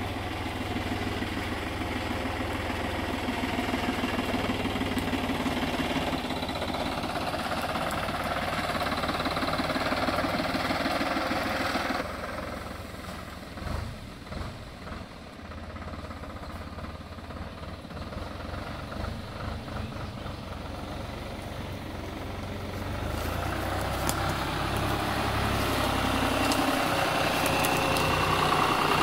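An engine running steadily with a low hum. It grows louder, drops suddenly about twelve seconds in, stays lower for a while, then builds up again near the end.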